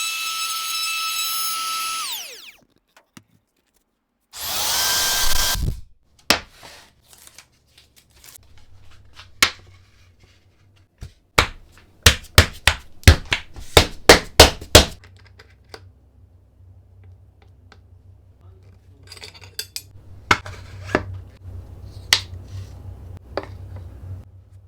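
A power tool's motor runs with a high whine and winds down in falling pitch about two seconds in, then runs again briefly. A series of sharp knocks and taps follows, quickest about twelve to fifteen seconds in.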